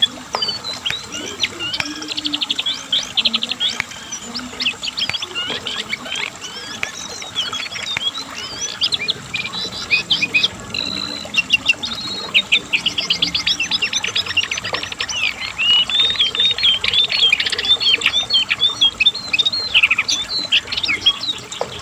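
Cingcoang coklat (jongkangan, lesser shortwing) singing a long, non-stop song of rapid trills and chirps.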